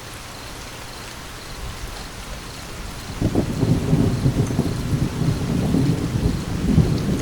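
Steady rain falling, with a roll of thunder breaking in suddenly about three seconds in and rumbling on loudly to the end.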